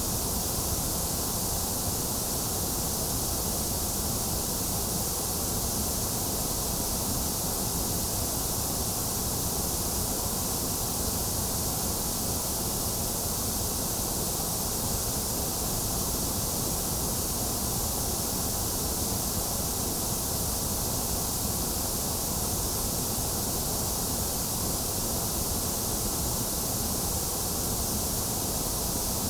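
Steady, unchanging electronically generated white noise: an even hiss, brightest in the treble with a low rush underneath, with no rhythm or change.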